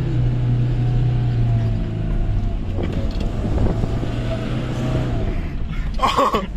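Toyota HiLux engine running steadily under load on a rough dirt track, heard from inside the cab, with knocks and rattles from the bumps a few seconds in. The engine note drops away about five seconds in, and a short shout follows near the end.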